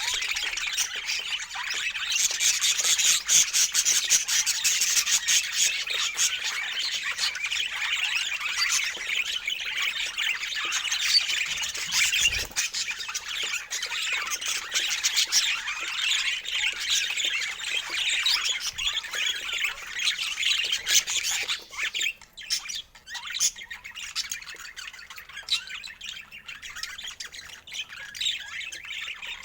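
A flock of birds squawking and chirping in dense, overlapping chatter, which thins out about two-thirds of the way through.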